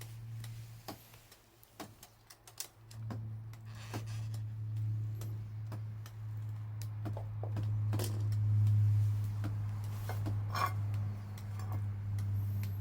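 Wood fire crackling with irregular sharp pops, over a steady low hum that grows louder about three seconds in.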